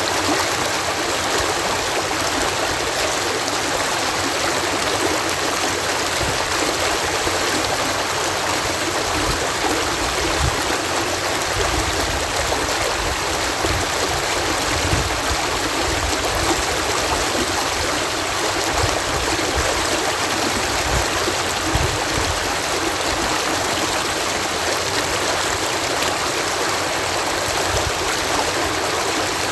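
Water pouring over a canal lock in a steady, even rush, with some low rumbling in the middle stretch.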